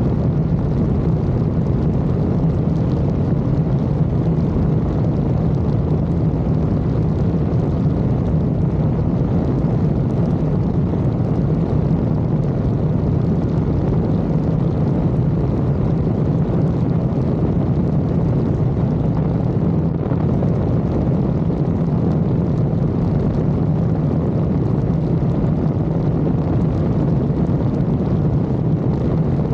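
Piper Cherokee's single piston engine and propeller running steadily at full takeoff power.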